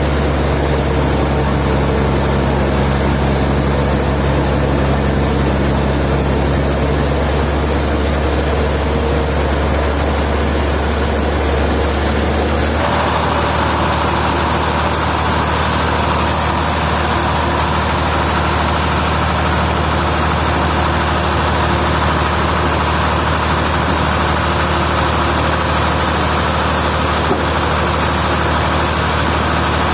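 Heavy sawmill machinery running steadily. About thirteen seconds in the sound shifts abruptly to a new steady pitch, with a higher hum added.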